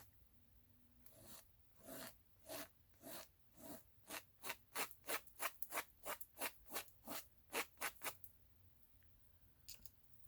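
A piece of plant used as a paintbrush, scratching and rubbing paint across the surface in repeated short strokes: slow at first, then quicker at about three strokes a second, stopping about eight seconds in.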